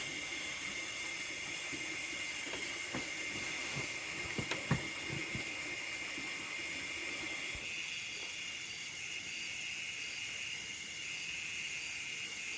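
Steady high-pitched chorus of nocturnal rice-field insects, with a few short knocks about four and a half seconds in.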